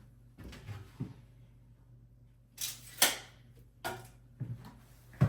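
A handful of knocks and clunks from things being handled and set down, the loudest a sharp knock about three seconds in.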